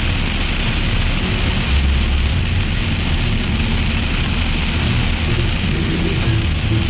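Heavy rain falling on a car's roof and windscreen, heard from inside the cabin as a loud, steady hiss over the low rumble of the moving car.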